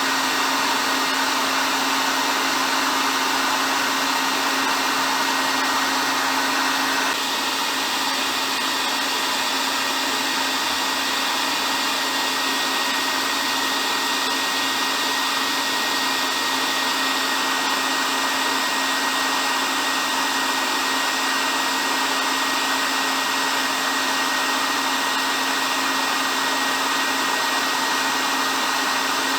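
Hair dryer running steadily: an even rush of blown air over a constant motor hum, with a slight drop in level about seven seconds in.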